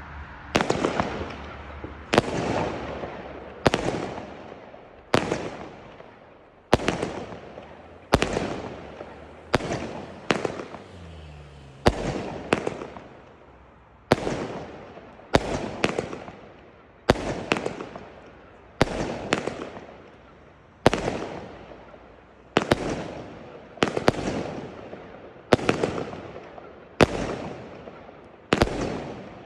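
Fireworks exploding one after another, about one sharp bang every second and a half, a few in quick pairs, each bang trailing off over about a second.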